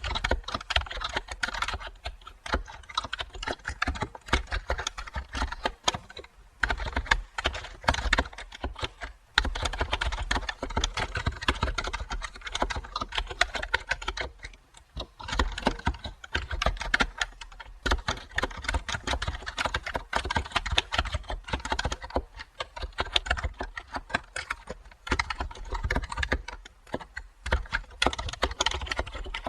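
Computer keyboard typing: runs of rapid keystrokes broken by brief pauses every few seconds.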